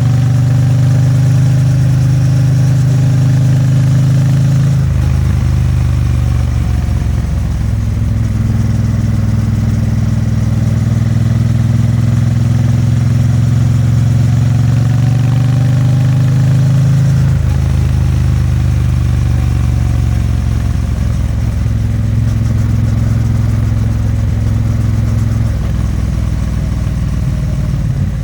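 Triumph Bonneville T100's vertical (parallel) twin exhaust while riding, the engine note climbing slowly with road speed and dropping abruptly at gear changes about 5 seconds in and again about 17 seconds in.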